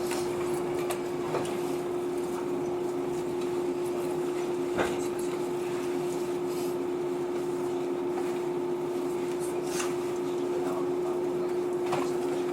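Steady hum from the equipment of a stopped 115-series electric train, heard inside the carriage, with a few faint knocks inside the car.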